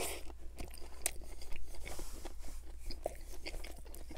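Close-miked bite into a Burger King Whopper, a soft crunch of bun and lettuce, followed by chewing with many small wet clicks and smacks.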